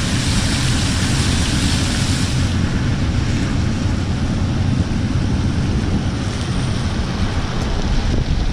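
A boat's motor running steadily, with wind and water noise rushing over the microphone; the high hiss eases about two and a half seconds in.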